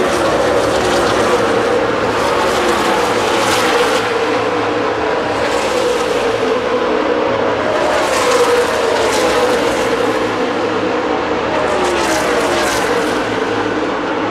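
NASCAR Nationwide Series stock cars' V8 engines running at racing speed on the track. Their pitch falls and rises as cars go by, with a fresh swell of passing cars every few seconds.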